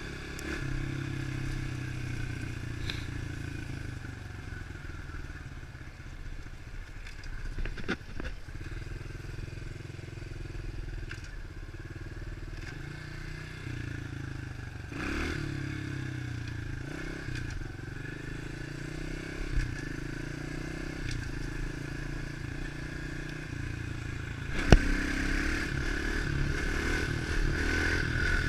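110cc four-stroke pit bike engine running as it is ridden, its revs rising and falling, with a few sharp knocks and rattles; the loudest knock comes near the end, after which the engine runs a little louder.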